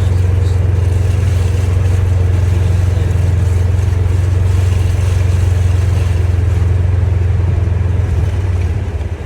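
Polaris Ranger Crew 1000 XP side-by-side's twin-cylinder engine running steadily under way, heard from inside the enclosed cab, easing off briefly near the end.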